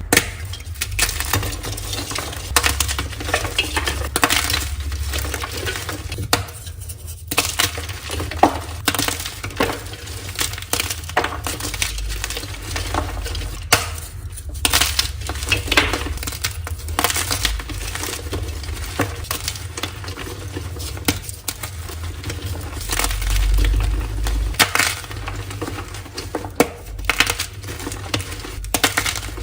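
Blocks of crunchy gym chalk being crushed and crumbled by hand: a dense run of crisp crunches and crackles, with a few louder snaps.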